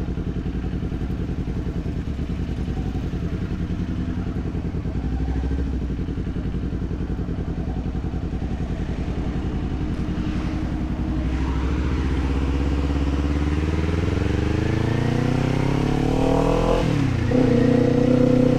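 Kawasaki Z400 parallel-twin engine running at low, steady revs, then rising in pitch as the bike accelerates from a bit past halfway. Near the end the revs dip sharply and climb again.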